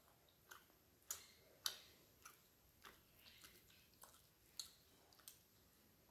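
Close-miked chewing of a mouthful of rice and fish, with wet mouth clicks and lip smacks. About ten sharp clicks come at uneven intervals, the loudest two in the first two seconds.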